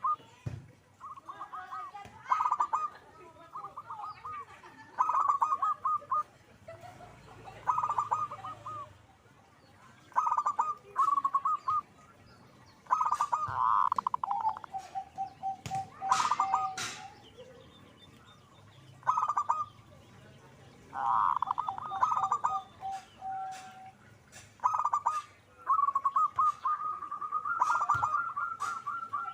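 Zebra doves (perkutut) cooing in repeated bursts, each a fast stuttering run of notes, some ending in a short even string of lower notes, with a few sharp clicks among them.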